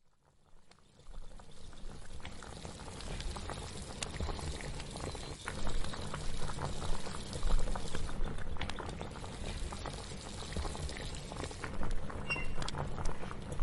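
Pot of liquid bubbling on the boil, a steady low rumble with many small irregular pops. It fades in over the first second.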